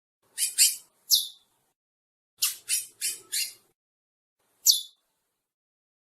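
Chestnut-bellied seed finches (curió) calling: eight short, sharp, high notes that each slide quickly downward. They come in bursts of two, then one, then four in quick succession, then a single note near the end.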